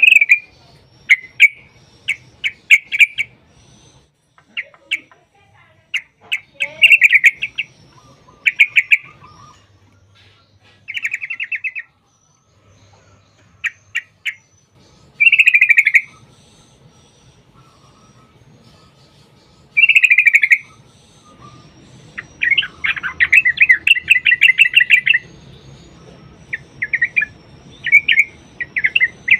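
Yellow-vented bulbul (trucukan) singing: short bubbly, chattering phrases repeated every second or two, with a long rapid run of notes about two-thirds of the way through.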